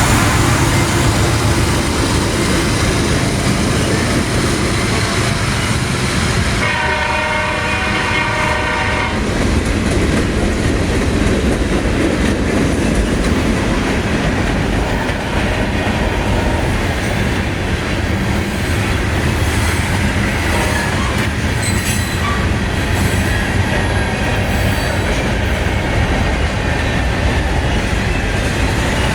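Manifest freight train rolling past, its wheels clacking steadily over the rail joints. About seven seconds in, the lead locomotive's first-generation Nathan K5HL five-chime horn sounds one chord for about two and a half seconds.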